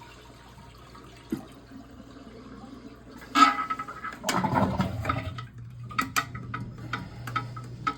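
A sharp knock about three seconds in, then a sewer ejector pump starts about a second later: a rush of water, then a steady low hum with intermittent clinking.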